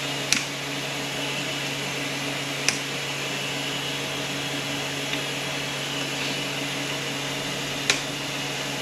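Sharp clicks, three of them plainly (about a third of a second in, near three seconds and near the end), from snap ring pliers working at the planetary snap ring of an Aisin Warner A340F automatic transmission on the bench. The ring sits upside down and is hard to get out. A steady hum from a shop machine runs under them.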